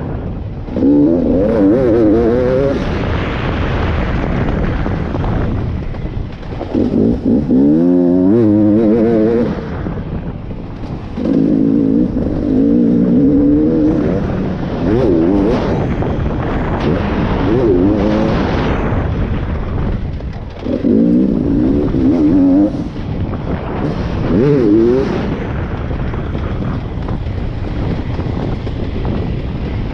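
Beta 300RX two-stroke motocross engine riding hard, revving up in repeated bursts of throttle. The pitch climbs with each burst and drops back between them, about seven times.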